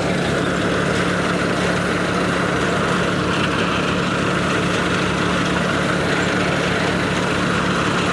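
Massey Ferguson tractor engine running steadily at constant speed while driving a threshing machine, with the engine's hum mixed with the thresher's broad mechanical rush.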